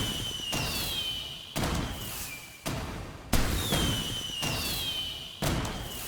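Fireworks going off: about five sharp bangs at uneven intervals, each trailing off. Two high whistles, one at the start and one just past halfway, fall slowly in pitch.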